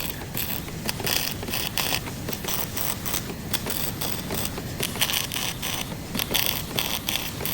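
Hand tools at work on a car body: a dense, irregular run of mechanical clicks and scrapes.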